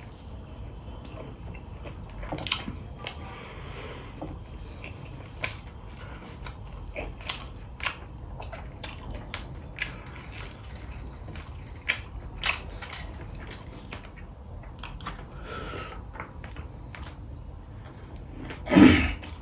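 Close-up mouth sounds of a person chewing mouthfuls of rice and curry eaten by hand, with scattered sharp smacks and clicks. A short, louder sound comes near the end.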